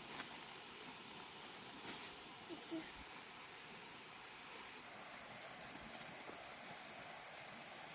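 Steady high-pitched chorus of insects buzzing, with a few faint knocks.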